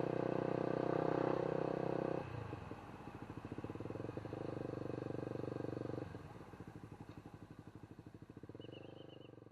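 An engine running with a fast, even pulse, its level dropping and rising a few times as its speed changes.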